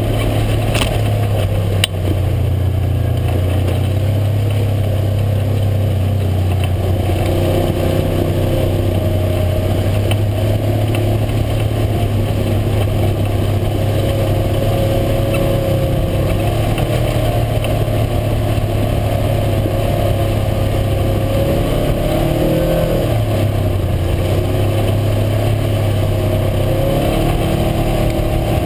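UTV engine running steadily as the vehicle drives along, a constant low drone whose higher tones rise and fall a little with the throttle, most noticeably in the last several seconds. Two sharp knocks come near the start.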